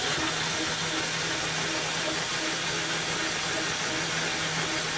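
Metal lathe running steadily with a faint hum, boring out the bore of a cast-iron motor pulley with a boring bar.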